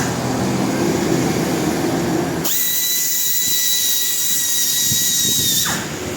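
High-speed rotary power tool: about two and a half seconds of rougher, lower grinding noise, then a steady high-pitched whine for about three seconds that spins down near the end.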